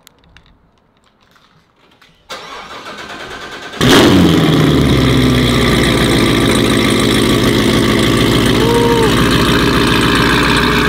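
Sports car engine with aftermarket Kooks headers cold-starting. After a second and a half of whirring, it catches about four seconds in with a loud flare, the revs fall back, and it settles into a steady, loud cold idle. A brief tone sounds over it near the end.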